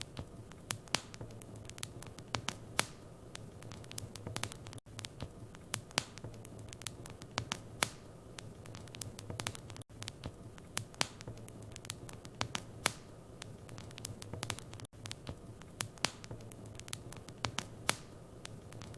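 Fireplace wood fire crackling, with irregular sharp snaps and pops over a steady low rumble. A brief dropout comes about every five seconds.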